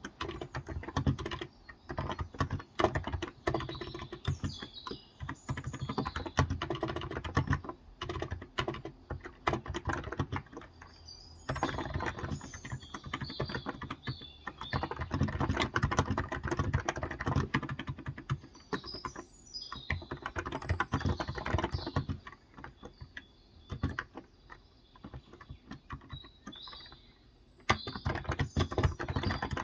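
Fast typing on a Cox Endeavour electro-capacitive (Topre-style) 35 g tenkeyless keyboard, with soft, rapid key strokes in runs broken by brief pauses. Birds chirp in the background now and then.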